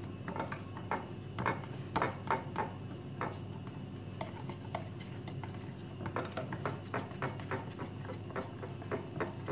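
Hand whisking of a yogurt, oil and baking powder mixture in a bowl: the utensil clicks irregularly against the bowl, two or three taps a second, closer together near the end.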